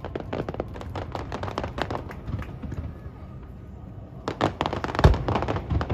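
Aerial fireworks crackling in a rapid run of small pops, easing off for a moment, then a series of louder bangs from about four seconds in, the heaviest about a second later.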